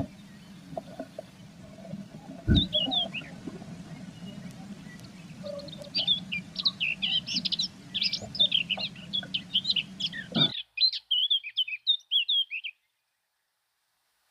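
Small songbirds chirping and calling rapidly over a steady low hum, played at 1.3x speed, with a single thump about two and a half seconds in. The background hum cuts out abruptly about ten seconds in, the chirps stop soon after, and the end is silent.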